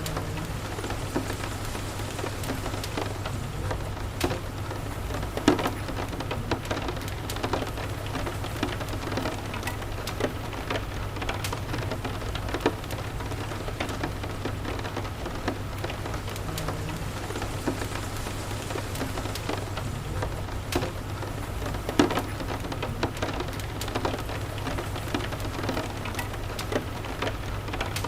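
Steady rain mixed with a crackling fireplace: an even hiss of rain with scattered sharp pops throughout, over a low steady rumble.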